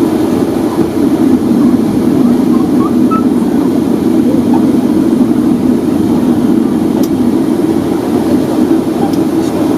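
Steady, loud cabin rumble inside a Boeing 757-200 on the ground before takeoff, with faint voices and a couple of small clicks.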